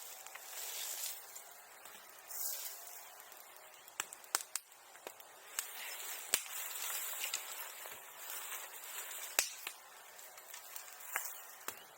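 Rustling of dry brush and leaves being handled, with scattered sharp snaps and cracks, the clearest about four, six and nine seconds in.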